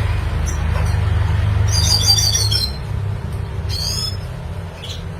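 Red siskin singing: a quick run of repeated high chirps about two seconds in, and a shorter phrase near four seconds. A steady low rumble runs underneath.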